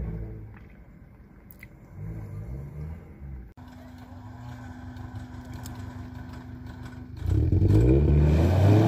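Suzuki Jimny engine revving in two short bursts while crawling over rocks. After a cut it runs steadily, then about seven seconds in revs hard and loud, rising and falling, as the Jimny tries to pull out of deep mud.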